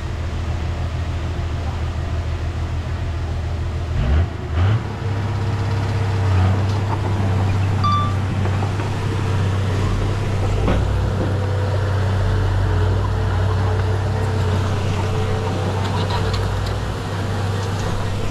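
Diesel engine of heavy earthmoving equipment running steadily under load, with a brief surge in engine note about four seconds in.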